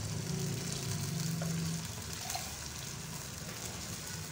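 Beef and masala sizzling in oil in a karahi over the heat, with a glass of water just stirred into the pan. A steady low hum runs underneath.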